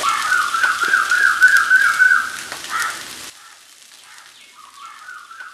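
Taro pieces sizzling in oil in a pan, with a high warbling, whistle-like tone over the sizzle. About three seconds in the sizzle cuts off suddenly, leaving a quieter, faint wavering tone.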